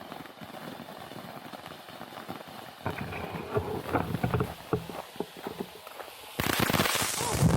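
Consumer firework cake going off: a run of quick crackling pops starting about three seconds in, then a sudden, much louder dense burst of crackle near the end.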